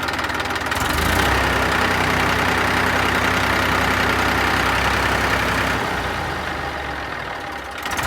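Massey Ferguson 1035 tractor's three-cylinder diesel engine pulling hard in low-range reverse, trying to drag the tractor out of deep mud. The engine note rises about a second in, holds steady, then eases off near the end.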